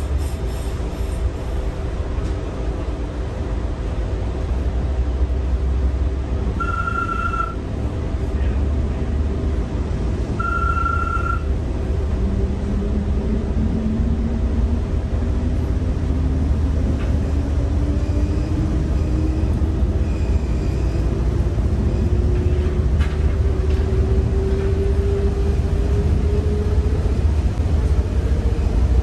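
Stadler FLIRT diesel-electric commuter train running with a steady low rumble. There are two short beeps about seven and ten seconds in. From about twelve seconds a traction-motor whine climbs steadily in pitch as the train picks up speed.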